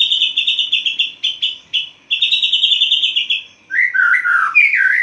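White-rumped shama (murai batu) singing loudly: two fast, rattling trills, then a run of lower, varied whistled phrases near the end.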